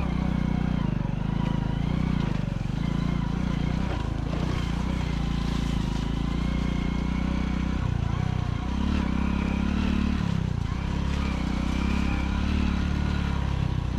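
Motorcycle engine running at low speed, its pitch rising and falling with the throttle.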